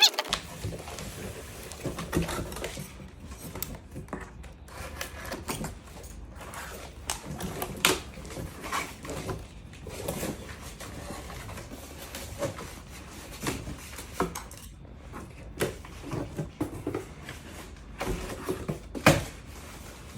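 Packaging of a soundbar box being opened and handled: irregular rustling, rubbing, clicks and small knocks.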